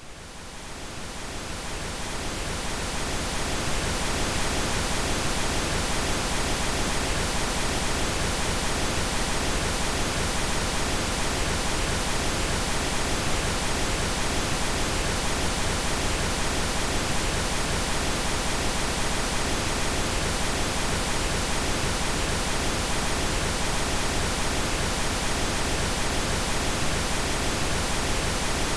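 Synthetic pink noise, an even, steady hiss across the whole range. It fades in over the first few seconds, then holds at a constant level.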